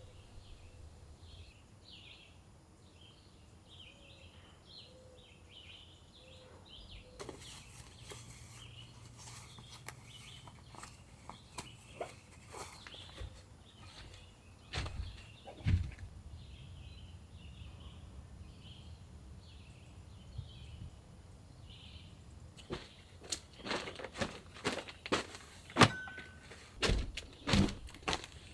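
Outdoor forest ambience with birds chirping repeatedly. Scattered sharp knocks and clicks come in, becoming frequent and louder in the last five seconds.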